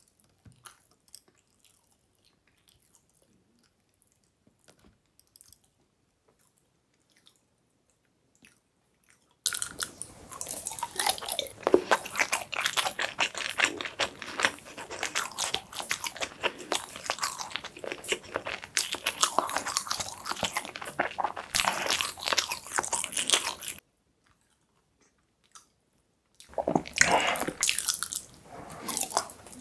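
Close-miked chewing of a firm, pudding-like chocolate milk cake: a dense run of mouth clicks begins about a third of the way in. It stops abruptly near the end, then starts again as another spoonful goes in. Before the chewing there are only a few faint clicks of a small knife cutting the cake on a wooden board.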